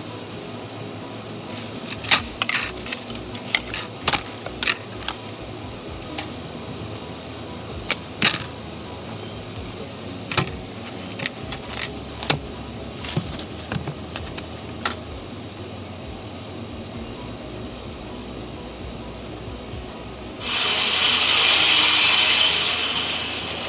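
Scattered clicks and light clatter of plastic cake boards and a plastic bag being handled, with a faint high pulsing beep for a few seconds midway. Near the end a loud hiss of air or steam lasts about three seconds and fades out.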